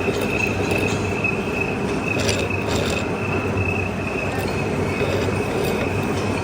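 Machine tool cutting metal, running with a steady high-pitched squeal over a continuous mechanical rumble, with a few short clicks about two seconds in.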